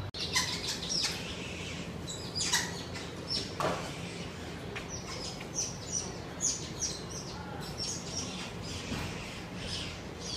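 Small birds chirping and calling, with many short, sharp high chirps coming several a second. A low steady hum runs underneath.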